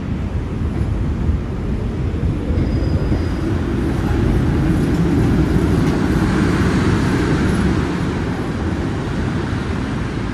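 Urban rail vehicle running with a steady low rumble that grows louder through the middle and eases off near the end.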